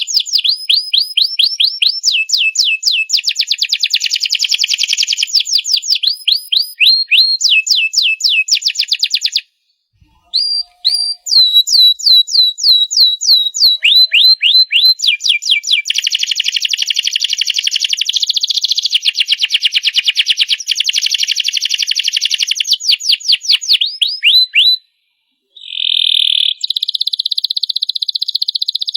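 Domestic canary singing a long song of rapid trills: each phrase is a fast run of repeated falling notes, switching to a new phrase every second or two. The song breaks off briefly about ten seconds in and again near the end.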